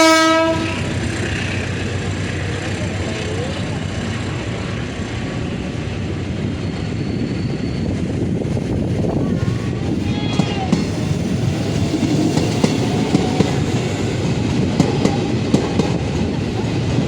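A train horn sounds one short blast at the very start, then a train runs through with a steady rumble and rolling noise. In the second half, sharp wheel clicks over the rail joints come more often.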